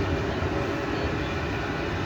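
A tram running, a steady rumble of wheels and motors with no distinct clicks or knocks.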